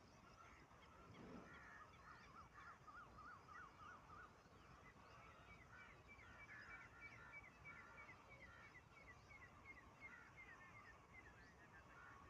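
Faint bird calls: a quick wavering run of notes a few seconds in, then a long series of short repeated chirps.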